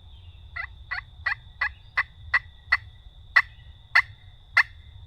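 Turkey yelping: a series of about ten short, sharp yelps, about three a second, spacing out slightly toward the end.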